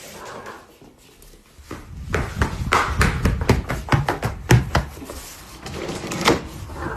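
A quick, uneven run of knocks and thumps with low rumbling, busiest from about two seconds in.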